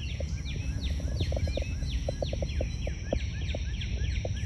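A songbird calling outdoors in a quick, steady series of short high notes that each slide downward, about two or three a second. A steady low rumble runs underneath.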